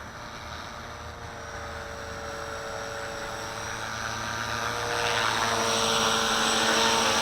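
Walkera V450D01 electric collective-pitch RC helicopter hovering: the steady whine of its motor and rotors, growing louder from about four seconds in.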